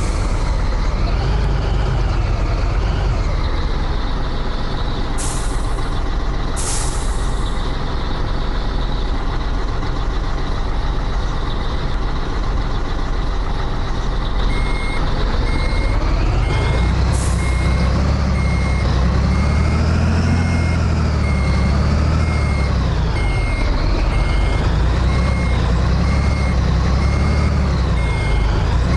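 Scania 113H truck's six-cylinder diesel running, its revs rising and falling, with short air hisses now and then. From about halfway a regular electronic beeping pulses steadily over the engine.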